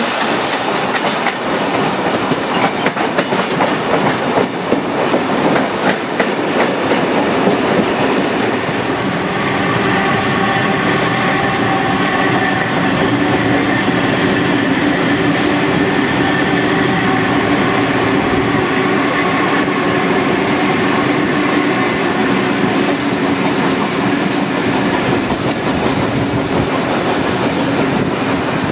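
Carriage wheels clattering over rail joints and points, with rushing air, heard from an open window of a moving train. From about nine seconds in, a steady hum of several tones joins, from an electric double-deck suburban train running alongside.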